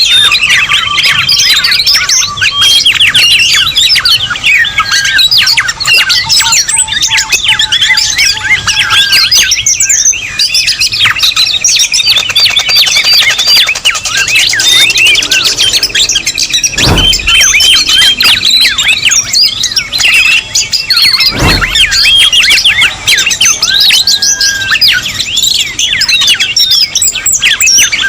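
A dense, busy mix of many birds chirping, twittering and whistling over one another, played as a bird-lure recording. Twice, about two-thirds of the way through, a short dull thump cuts through the birdsong.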